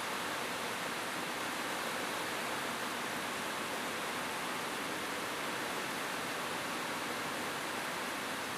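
Rain falling steadily on a roof, an even hiss with no single drops or thunder standing out.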